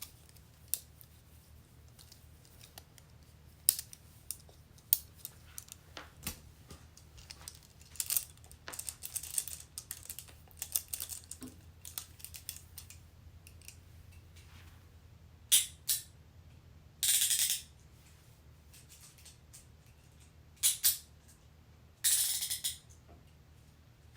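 Metal handcuffs being handled: scattered sharp clicks, then a quick run of ratcheting clicks, then several short metallic jangles in the second half.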